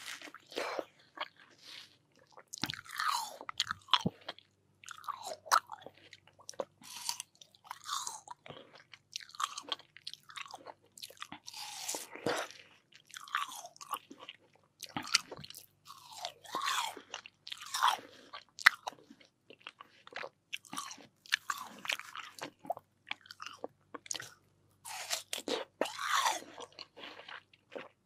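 Close-miked eating of crisp, juicy watermelon: repeated crunchy bites and wet chewing in irregular bursts.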